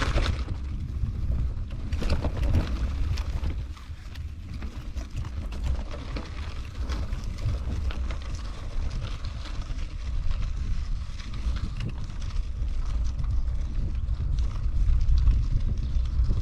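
Wind buffeting the microphone of a camera on a moving bicycle: a steady, fluctuating low rumble, with a few sharp knocks in the first few seconds.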